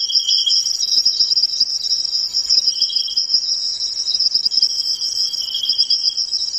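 Crickets trilling in a continuous high-pitched chorus, with a second, lower trill joining three times for under a second each.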